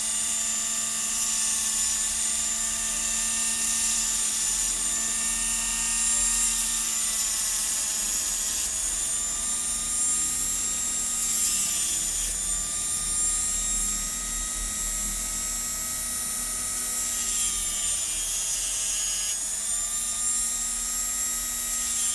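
Small electric hand-held lens grinder running with a steady high whine, its pitch shifting a little now and then as an eyeglass lens edge is ground against it.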